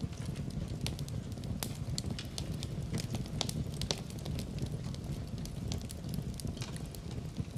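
Wood fire burning in a fireplace, a steady low rumble under frequent irregular crackles and pops.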